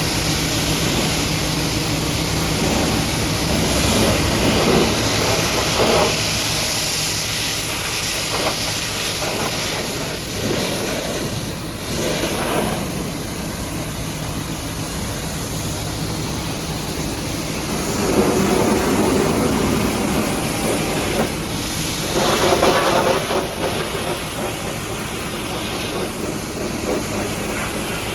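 Pressure washer jet spraying water against a truck, a steady hissing rush. Its tone shifts as the spray moves over different surfaces, and it is fuller and louder at a few points.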